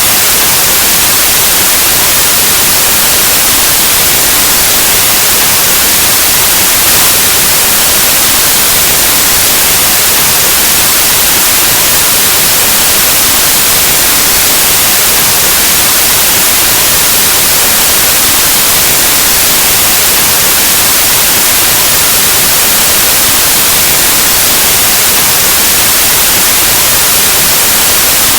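Loud, steady white noise, an even static hiss like an untuned analog television or radio, unchanging throughout.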